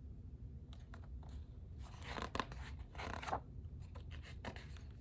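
Paper rustling and crinkling as the pages of a picture book are handled and turned: a few short irregular swishes and clicks, the loudest two near the middle.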